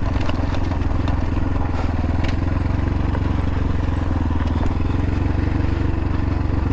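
X-Pro Templar X 250 dirt bike engine running steadily at low revs with no revving, the bike running warm after a long steep descent.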